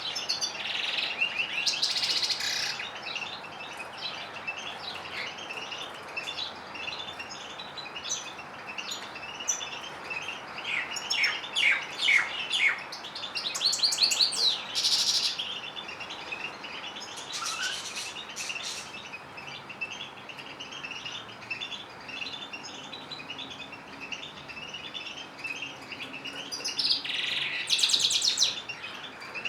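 Canaries and goldfinches singing: a continuous high twittering, broken by several louder trilled phrases, the loudest near the middle and near the end.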